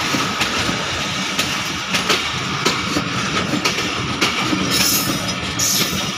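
Express passenger coaches rolling past at speed, their wheels clacking over rail joints about every two-thirds of a second over a steady running noise.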